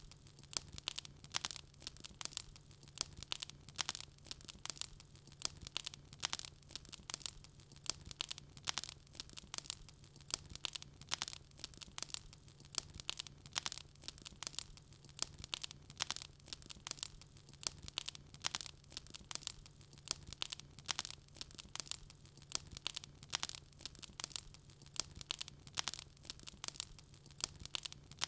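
Wood fire crackling: a dense, irregular run of sharp pops and snaps, over a faint steady low hum.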